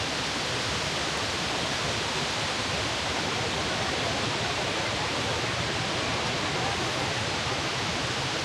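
Steady rushing of Cane Creek's water tumbling over rock cascades, an even unbroken roar of white water.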